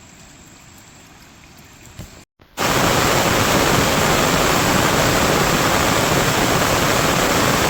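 Loud, steady rushing of water, starting abruptly about two and a half seconds in after a short break; before it, a much quieter even hiss.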